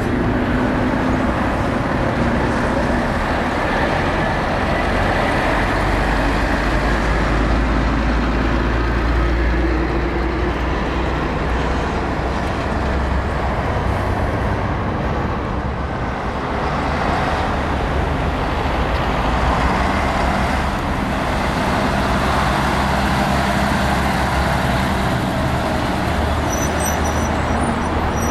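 Heavy diesel trucks running and passing close by, a continuous low engine rumble with tyre and traffic noise that swells as the trucks go past.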